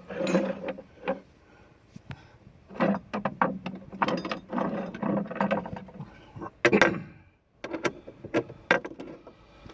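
Metal hand tools clinking and rattling as a socket set is handled, with irregular sharp clicks and knocks in several short clusters.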